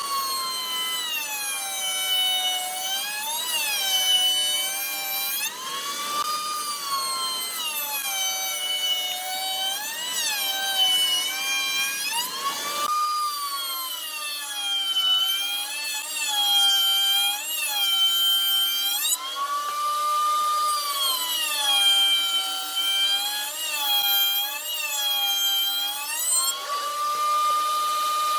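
A high-speed electric power tool motor working wood, its pitch dropping under load and rising back again every second or two.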